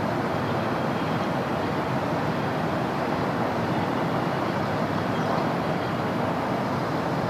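Steady city road traffic: the continuous mixed noise of many passing vehicles, even in level throughout.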